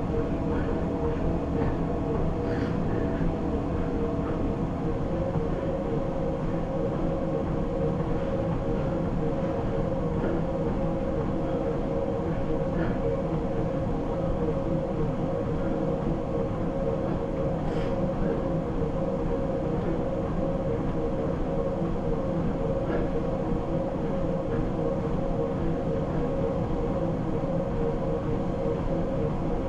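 Treadmill running steadily under a runner, its motor holding a steady whine over the rumble of the belt, with a few faint ticks.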